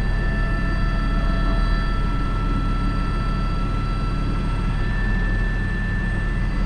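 Airbus H125 (AS350 B3) helicopter heard from the cockpit, its turbine and rotor running steadily: a constant low rumble with a fast beat under a steady high whine.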